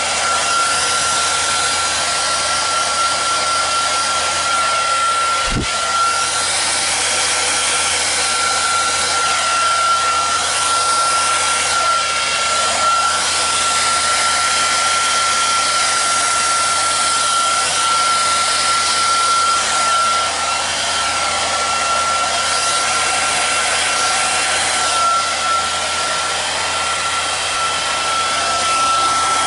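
Handheld hair dryer running steadily, a constant high motor whine over the rush of air, blowing thinned acrylic paint across a canvas.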